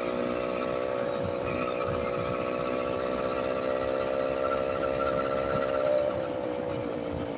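Motorized bicycle's small engine running steadily while riding, its pitch easing down slightly near the end.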